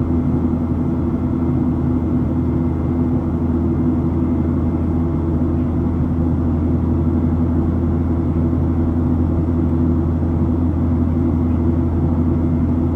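Steady, even drone of a Boeing 737-700's CFM56-7B jet engines heard from inside the passenger cabin, a constant low rumble with a steady hum and no change in level.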